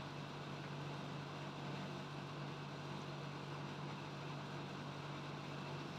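A steady low hum over an even hiss, unchanging throughout, like a motor or fan running.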